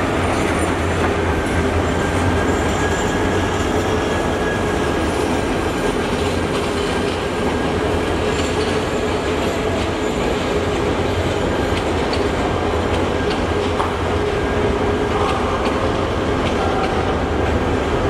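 Passenger coaches of a long inter-city train rolling past on steel rails: a steady rumble of wheels on track, with a thin wheel squeal and clacks over the rail joints.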